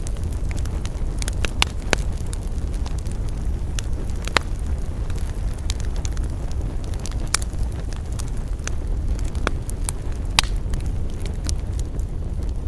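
Wood campfire burning: a steady low rumble under scattered sharp crackles and pops, the loudest near 2, 4.5, 7.5 and 10.5 seconds in.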